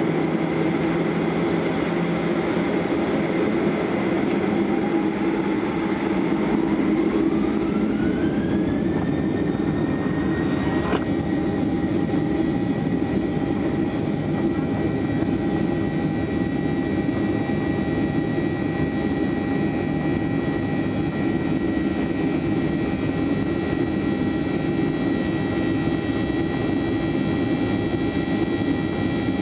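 Boeing 737-800's CFM56 turbofan engines heard from inside the cabin, spooling up to takeoff thrust: a whine climbs steadily in pitch for about five seconds, then holds one high steady tone over a constant engine roar.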